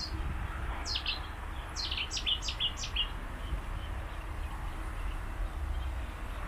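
A songbird singing one short phrase of about six quick notes, each sweeping down in pitch, over a steady low rumble.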